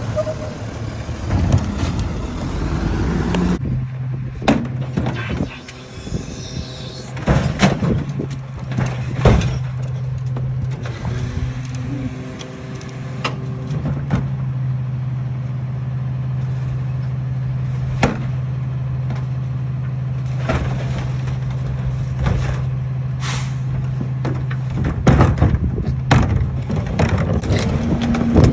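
Garbage truck running with a steady low hum, with repeated sharp clanks and bangs throughout.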